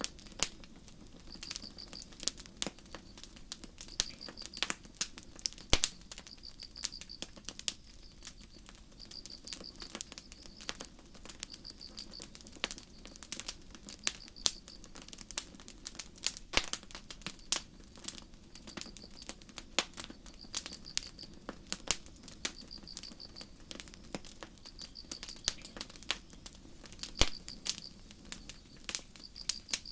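Campfire crackling, with irregular sharp pops and snaps over a low steady hiss of burning wood, while crickets chirp in short high trills repeated about every second and a half.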